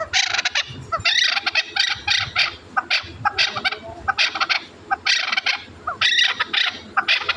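Chukar partridge chick calling: a steady run of short, high calls, several a second.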